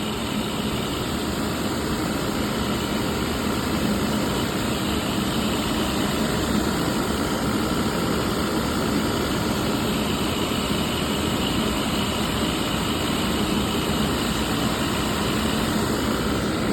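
A machine running steadily: an even mechanical drone with a faint low hum and no change in pace.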